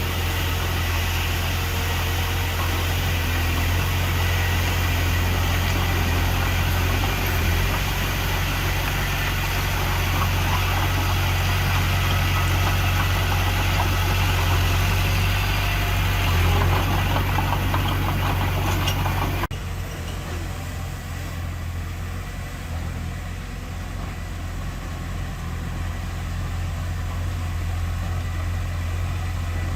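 Heavy diesel engine of earthmoving machinery running steadily, a deep hum with a noisy wash over it. About two-thirds of the way through, the sound changes abruptly to a quieter, smoother engine run.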